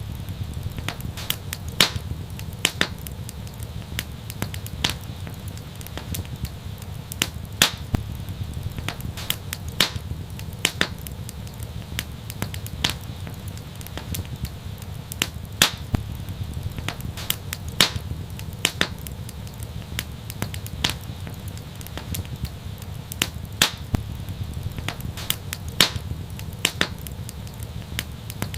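Wood fire burning steadily with a low rumble, crackling and popping in irregular sharp snaps, a few each second.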